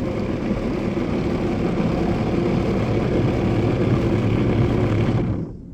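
Automatic car wash air-dryer blowers, heard from inside the car as a loud, steady rushing noise that cuts off suddenly near the end.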